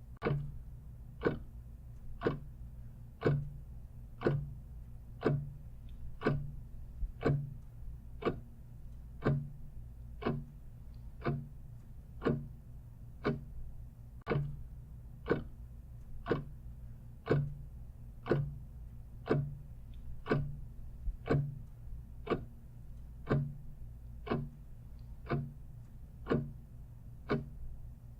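Clock ticking steadily, about two ticks a second, alternating a stronger and a weaker tick, over a low steady hum.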